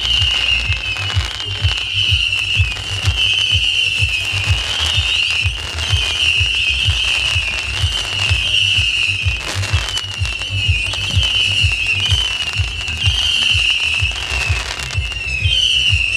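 Whistling fireworks (whistlers) firing in rapid succession: a continuous, wavering high whistle made of overlapping whistles about a second long each, over a steady run of low thumps, several a second, from the tubes firing, with a few sharp crackles.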